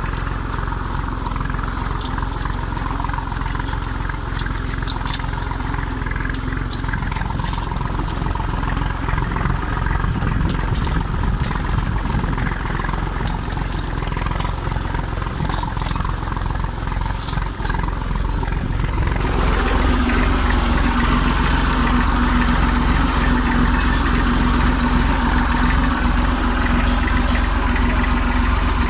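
The three-cylinder diesel engine of an IMT 539 tractor running steadily. About two-thirds of the way in it gets louder, with a steadier, more even hum.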